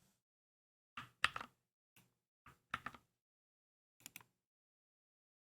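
Scattered keystrokes on a Keychron K2 mechanical keyboard: a few short clusters of clacks over about three seconds, then a pause.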